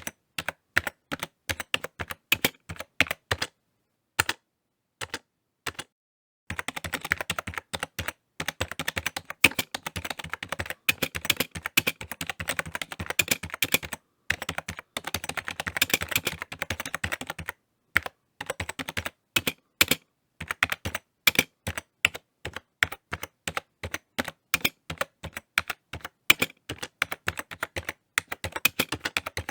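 Typing on a computer keyboard: rapid runs of key clicks, with a pause of a second or two about four seconds in and short breaks later on.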